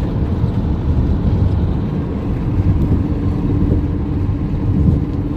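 Steady low rumble of a car driving, with a faint steady hum coming in about halfway through.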